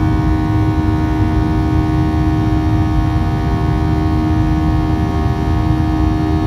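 Steady jet airliner cabin noise: a low rumble with a constant engine hum and whine tones over it.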